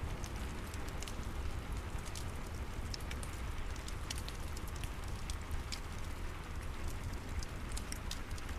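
Steady rain and a crackling fireplace together: a constant hiss with a low rumble underneath, and frequent small sharp crackles and ticks scattered through it.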